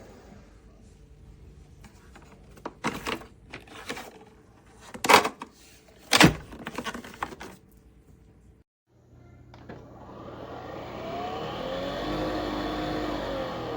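Sharp plastic clicks and knocks, then a motor whine that rises in pitch, holds and starts to fall over a steady hum: a Nespresso Vertuo Pop+ coffee machine spinning the capsule to brew.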